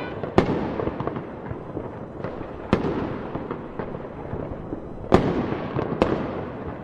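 Fireworks display: a dense run of crackling bursts with four loud bangs spread through it, the last two close together near the end.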